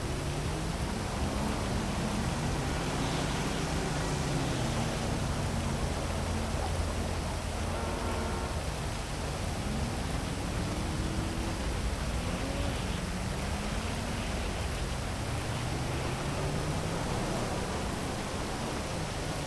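Heavy, steady rain mixed with the hum of city traffic, low engine tones sliding up and down as vehicles pass, and a brief pitched tone near the middle.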